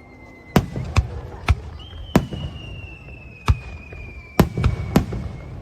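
Fireworks display: about eight sharp bangs of bursting shells at uneven intervals over a low rumble, with a long high whistle that slowly falls in pitch, starting about two seconds in.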